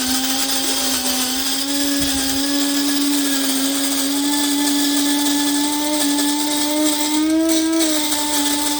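Cuisinart electric burr coffee grinder running, its motor giving a steady hum as it grinds coffee beans, with the pitch rising slightly for a moment about seven and a half seconds in.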